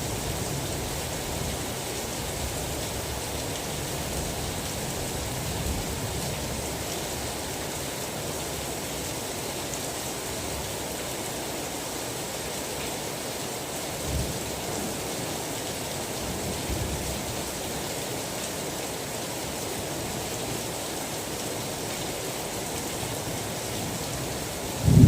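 Steady heavy rain, an even hiss. A few brief low rumbles pass mid-way, and a loud burst of thunder breaks in right at the end.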